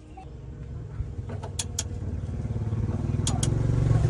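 Heavy truck's engine running, growing steadily louder, with a few sharp clicks over it.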